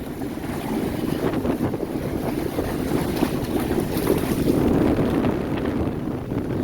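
Wind buffeting the microphone in uneven gusts, over the wash of waves.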